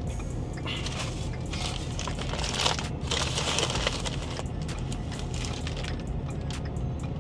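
Steady road and engine rumble inside a moving vehicle's cab at highway speed. From about a second in to past the middle, a loud crinkling hiss is added over it, with light clicks throughout.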